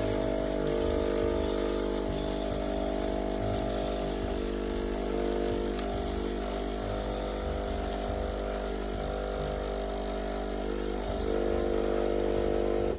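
Sage Barista Express espresso machine's vibration pump running with a steady buzzing hum, cutting off abruptly at the end. It is pumping water through a machine that is leaking everywhere.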